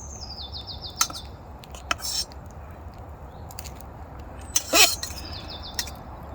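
A songbird sings two short phrases of high notes stepping down in pitch, one at the start and one about five seconds in. Around them come a few sharp clicks and a louder rustling clatter near the end, as camping kit is handled.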